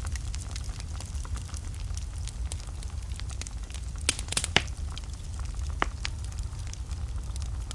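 Wood fire burning in a fireplace with a steady low rumble and frequent crackles. A cluster of sharper pops comes about four seconds in.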